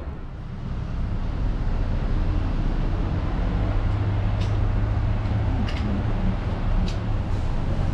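Bus engine running with a steady low rumble, heard from inside the cabin, with a few faint light ticks or rattles.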